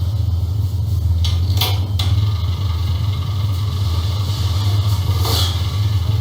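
A steady low hum or rumble, with two brief rustling swishes, one about a second and a half in and one about five seconds in.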